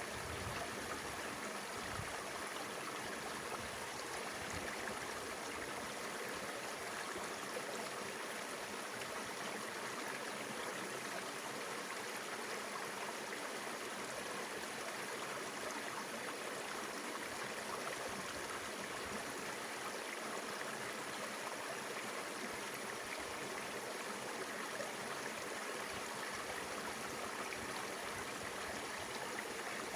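Mountain river water flowing steadily over its bed, an even, unbroken rush.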